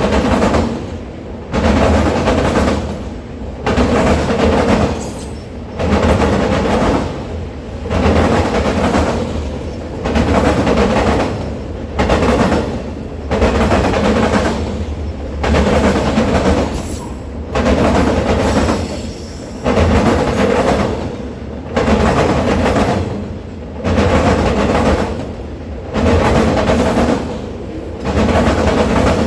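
A train rolling past, its cars' wheels clacking over the rail joints in a regular surge about every two seconds.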